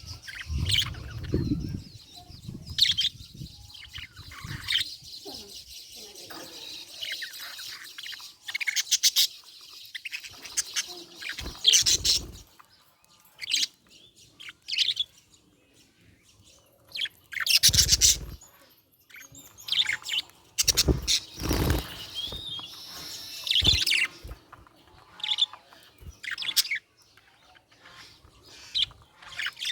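Budgerigar chirping and chattering in quick, high, twittering bursts throughout, with a few louder thumps mixed in.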